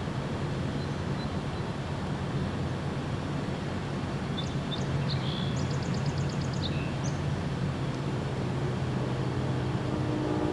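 Steady low outdoor rumble, like distant traffic, with a songbird singing briefly in the middle: a few high chirps and a quick trill of about eight notes a second. A faint steady hum comes in near the end.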